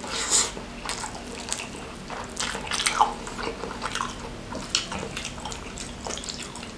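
Close-up mouth sounds of a person chewing a large mouthful of fried noodles: irregular wet smacks and moist clicks.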